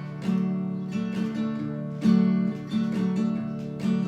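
Acoustic guitar strummed in a steady rhythm between sung lines, several strokes on sustained chords.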